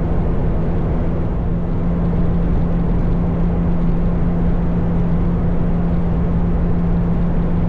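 Motorcycle engine running steadily at cruising speed, a constant drone with no rise or fall in pitch, over a steady rush of wind and road noise.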